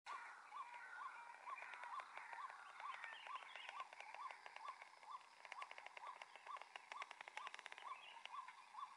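Faint birdsong: one bird repeats a short rising note steadily, a little over twice a second, over other chirping. A fast rattling trill joins it from about three to eight seconds in.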